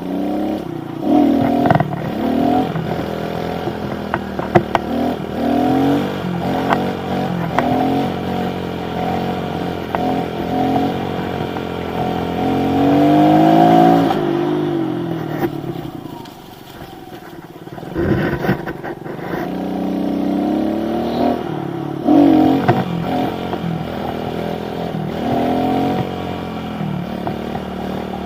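Pit bike's small single-cylinder four-stroke engine revving up and dropping back again and again as the rider accelerates into wheelies and lets off. There is a quieter stretch around the middle.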